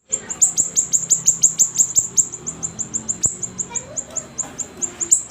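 Siri-siri bird singing vigorously: a fast, unbroken run of high, down-slurred chirps, about six a second.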